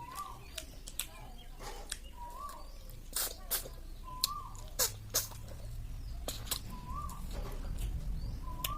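Eating sounds from a snail curry meal: sharp slurps and mouth clicks, the loudest cluster about three to five seconds in. A bird chirps the same short note every couple of seconds in the background.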